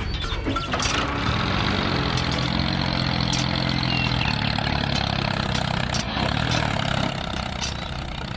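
An engine running steadily at idle, its low hum holding even pitch and fading a little near the end.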